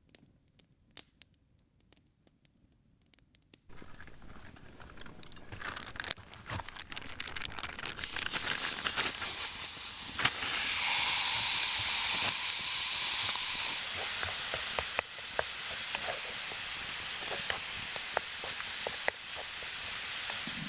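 Near silence with a few faint clicks, then from about four seconds in a campfire hissing and crackling. The hiss is loudest and brightest around the middle and settles a little quieter near the end.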